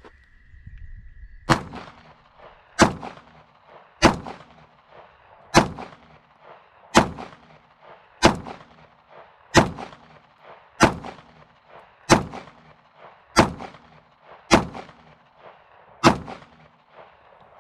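Twelve single pistol shots from a 9mm Polymer80-framed Glock 17 build with a ported barrel, fired at a slow steady pace of roughly one shot every 1.3 seconds, starting about a second and a half in. The pistol cycles every round without a failure to feed or eject.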